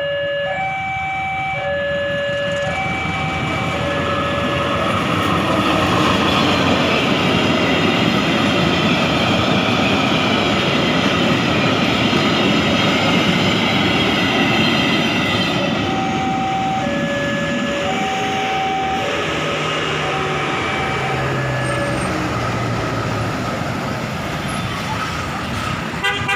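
A Pertamina fuel tank train passing, its wheels rumbling and clattering on the rails, loudest in the middle. An alternating two-tone warning alarm sounds through the first few seconds and again about two-thirds of the way through.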